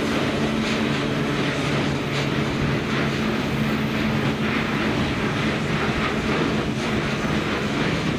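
Train running past close by: a steady rumble of wheels on rail with a low hum under it and a few faint clicks.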